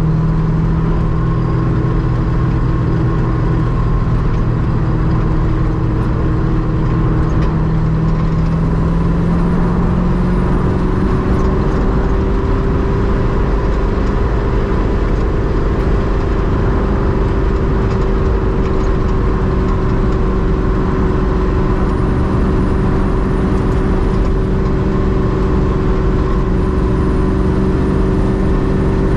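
Ultima RS's LS7 V8 engine running steadily under way on a drive, its note stepping up in pitch about ten seconds in and then holding.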